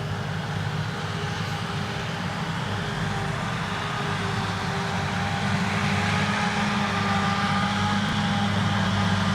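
Krone Big X 1100 self-propelled forage harvester working under full load as it chops triticale: a steady heavy engine and drive drone with a few steady whining tones above it, growing gradually louder.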